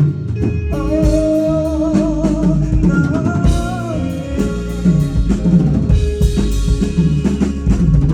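A rock band playing live: a drum kit keeps a steady beat under the band, and a long wavering melody note is held from about a second in to about four seconds in.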